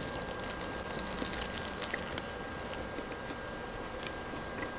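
Faint chewing of crispy fried chicken: scattered soft crunches and wet mouth clicks.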